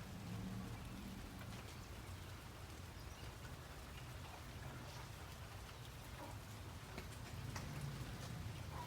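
Steady rain falling, an even hiss with scattered sharp taps of individual drops hitting a surface, over a low steady hum.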